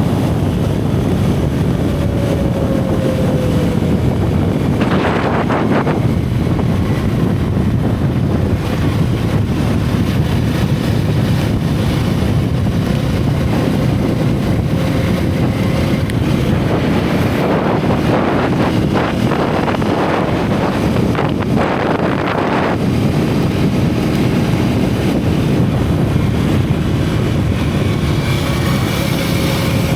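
Single-cylinder motorcycle engine and exhaust running under way, its pitch drifting up and down with the throttle, with heavy wind noise buffeting the microphone.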